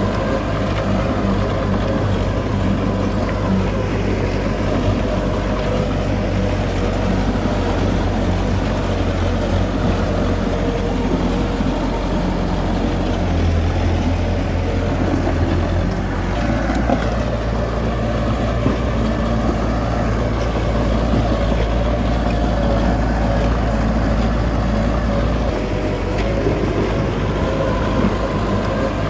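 Heavy bulldozer diesel engine running steadily under load. Its low note shifts a few times, about halfway through and again near the end.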